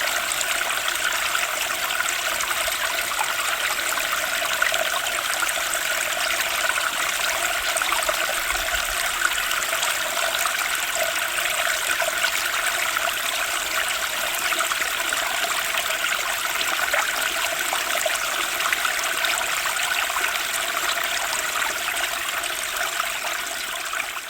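Turbulent spring stream rushing steadily over its bed, beginning to fade out near the end.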